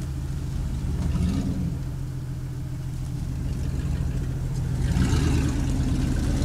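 Jeep ZJ mud bogger's engine running, rising in pitch briefly about a second in and again around five seconds in.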